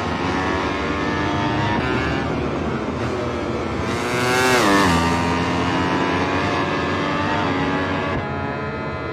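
Racing motorcycle engine running at high revs. About four to five seconds in, it is loudest as it passes close, and its pitch drops sharply as it goes by.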